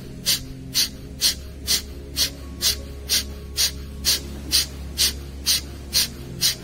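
Kapalabhati breathing: a rapid, even series of forceful exhalations puffed out through the nose, about two a second, each a short sharp hiss, with the inhalations passive and nearly silent between them.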